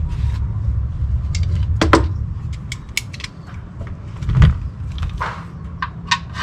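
Scattered metal clicks and knocks of hand tools and parts being handled under the vehicle, over a low hum that fades about halfway through.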